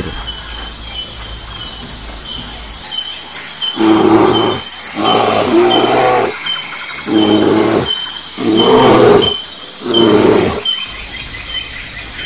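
A bear growling and roaring: five rough, loud calls in quick succession, starting about four seconds in. Insects chirp steadily and evenly throughout.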